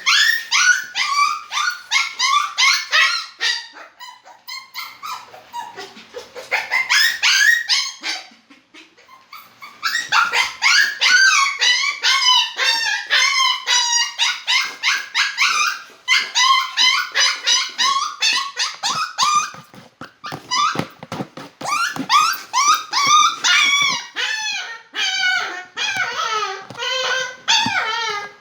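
Poodle whining and yipping in a long run of rapid, high-pitched cries, several a second, each sliding in pitch, breaking off briefly twice in the first ten seconds.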